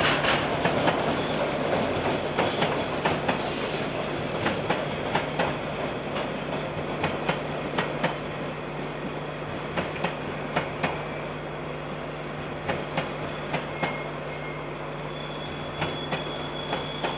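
Train rolling past, its wheels clicking irregularly over the rail joints over a steady low hum. The clicks thin out and the sound eases as it draws away.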